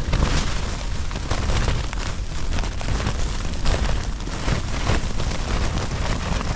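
Strong gusting wind shaking an MSR Hubba Hubba backpacking tent: the fabric flaps and rattles in irregular bursts over a heavy, continuous low rumble of wind.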